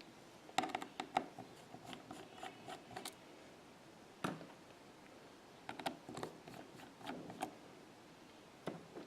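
Light metallic clicks and scrapes of a precision screwdriver and small tools working tiny screws out of an iPhone 6, in two short clusters with a single click between them.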